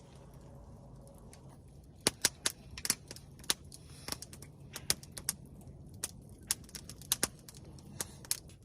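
Wood campfire crackling: irregular sharp pops, about twenty of them, starting about two seconds in, over a low steady hum.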